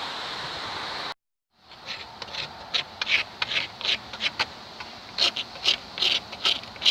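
Wood being cut or scraped with a blade in short, repeated rasping strokes, about two a second and unevenly spaced. These come after a steady rushing noise that ends abruptly in an edit about a second in.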